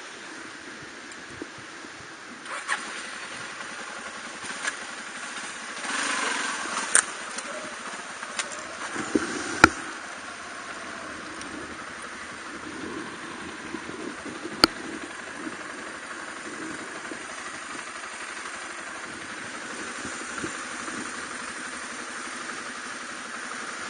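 Suzuki DR250R's single-cylinder four-stroke engine being started: a few sharp clicks and knocks and a short burst of cranking and catching in the first ten seconds, then a steady idle.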